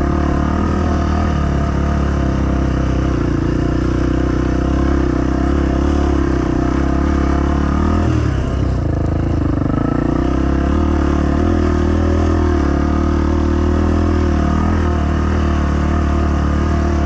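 Dirt bike engine running steadily under way, with a brief change in pitch about halfway through.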